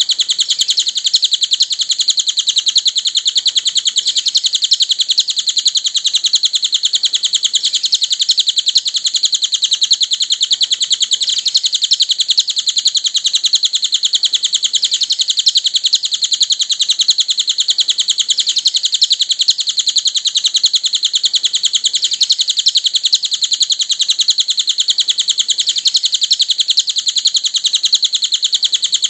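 Cililin birdsong played as a masteran recording: an unbroken, rapid, high-pitched twittering chatter that keeps on at an even level without pause.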